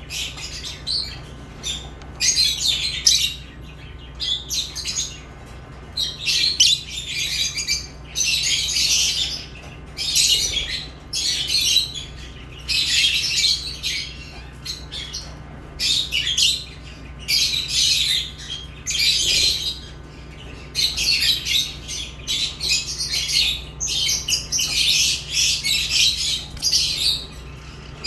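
Pet lovebirds chirping and squawking in fast, shrill bouts of a second or two with short pauses between them, over a steady low hum.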